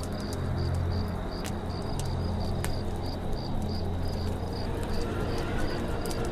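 Campfire crackling with scattered sharp pops, over a steady cricket chirping at about four pulses a second and a low steady drone underneath.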